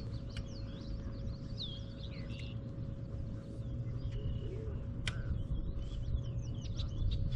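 Small birds chirping and calling in short, quick notes throughout, over a low steady rumble and a faint steady hum. A single sharp click sounds about five seconds in.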